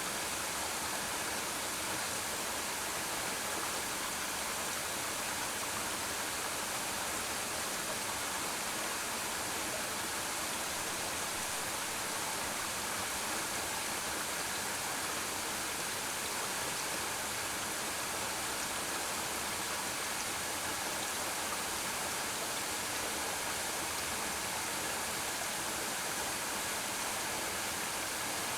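Waterfall falling into a pool: a steady, unbroken rush of water with no let-up.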